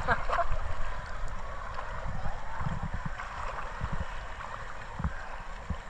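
Seawater sloshing and splashing around a swimmer, a steady watery wash with irregular low rumbling thumps.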